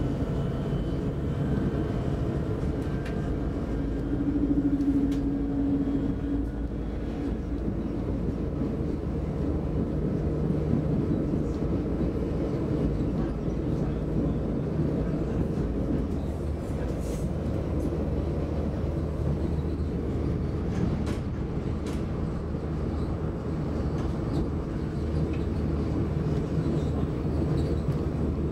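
Inside the passenger car of an X60 electric commuter train running along the line: a steady rumble of wheels on track. A low hum fades out about a second in and comes back from about ten seconds on.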